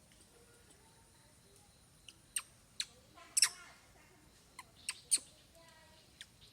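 A baby monkey giving a string of short, high-pitched squeaks and chirps. They begin about two seconds in, and the loudest comes about halfway through.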